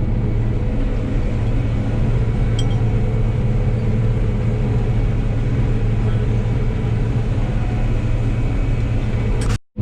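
John Deere 9760 combine running steadily while harvesting wheat, heard from the cab: a continuous low hum of engine and threshing machinery. Near the end the sound cuts out abruptly for a moment.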